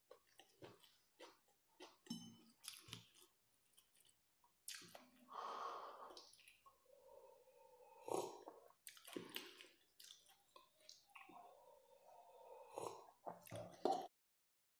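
Faint chewing of chow mein noodles, with scattered light clicks of a fork against a steel plate and a sip from a steel tumbler about eight seconds in.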